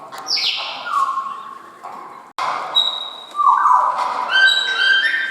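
A group of water birds calling, with overlapping harsh, pitched calls that fall slightly. About halfway through, a break is followed by a denser run of higher, clipped notes.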